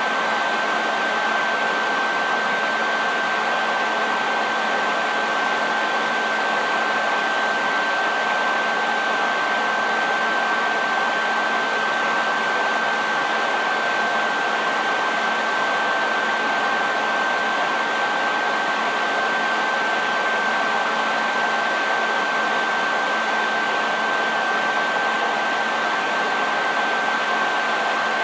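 Hair dryer running steadily: an even rushing hiss of the fan and airflow with a constant high whine from the motor and a faint low hum, unchanging throughout.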